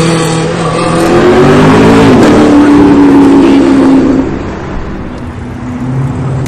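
A car's engine accelerating hard, its pitch climbing and then dropping sharply at a gear change about two seconds in. It then pulls steadily and fades as the car drives away, with another engine rumbling near the end.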